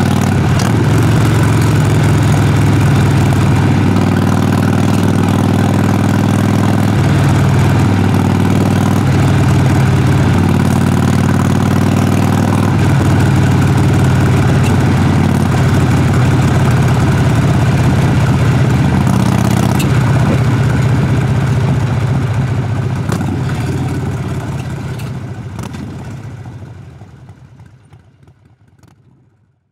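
Harley-Davidson Sportster Forty-Eight's V-twin engine idling steadily, heard at the exhaust, fading out over the last several seconds.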